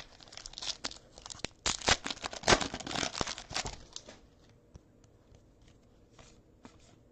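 Foil trading-card pack wrapper being torn open and crinkled, a dense burst of crackling about a second and a half in that dies down to a few faint clicks after about four seconds.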